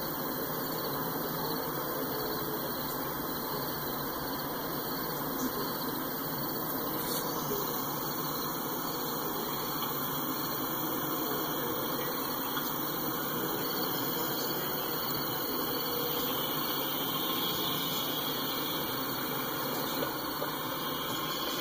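Freight cars rolling past at steady speed: a continuous noise of steel wheels running on the rails.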